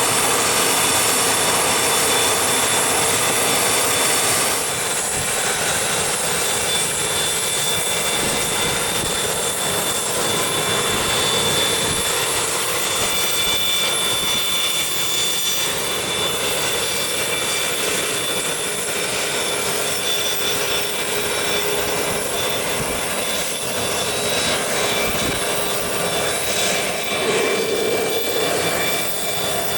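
Business jet engines running steadily: a constant rushing noise with several steady high-pitched whining tones.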